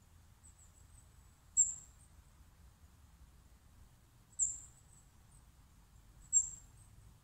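A bird giving short, very high-pitched chirps, three of them a couple of seconds apart, each fading quickly, with fainter chirps between, over a faint low rumble.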